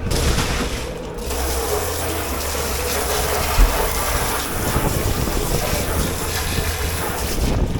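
Water running hard into a dish pit sink, with a short low knock about halfway through.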